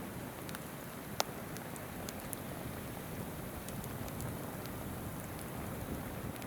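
Wood fire crackling, with scattered sharp snaps and one loud pop about a second in, over the steady rush of a babbling river.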